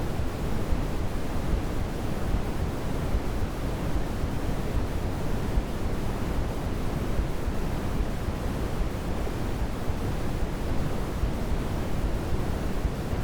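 Steady sleep-aid noise for babies, an even rushing hiss with more weight in the low end than the high, unchanging and without any tones or breaks.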